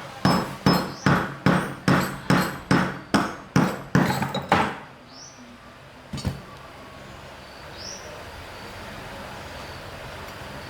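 A hammer striking metal about a dozen times at a steady pace, roughly two and a half blows a second, each with a slight ring, then a single further blow after a short pause.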